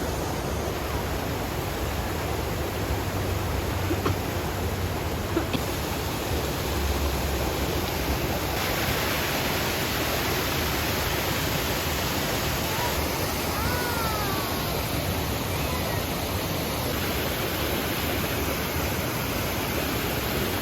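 Waterfall, water pouring in a steady, even rush of noise. A faint short whistle rises and falls about two-thirds of the way through.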